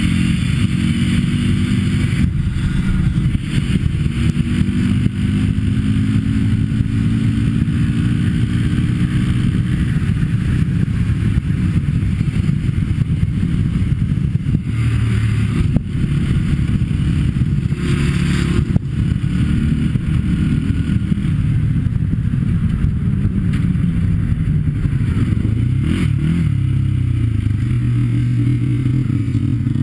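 Sport ATV engine running continuously under way, its pitch rising and falling with throttle and gear changes.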